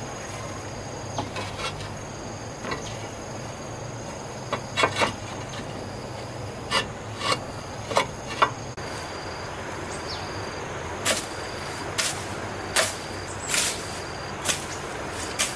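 Steady high insect chirring, with a series of sharp knocks: scattered at first, then coming regularly about once a second through the second half.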